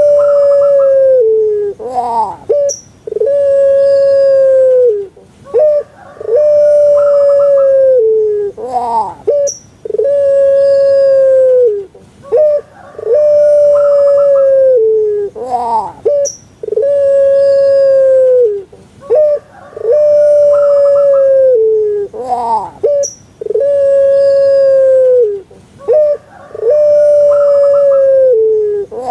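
Puter pelung, a Javanese breed of ringneck dove (Streptopelia risoria), cooing over and over, about every three seconds. Each call is a quick run of short rising notes followed by one long held note that drops at its end.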